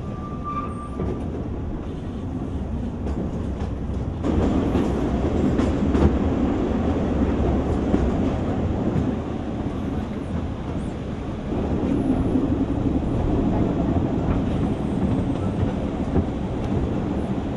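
Welsh Highland Railway narrow-gauge train running along the track: a steady rumble and clatter of wheels on rails, heard from the carriage window. It grows louder about four seconds in.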